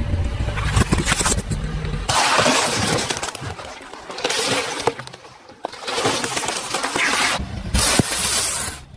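Brittle things crunching and crackling as they are crushed under a car's tyres, in four bursts, after a low rumble at the start.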